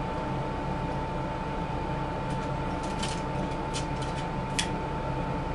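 Steady background hiss with a thin steady hum. In the second half come a few faint, light clicks, the last a little sharper.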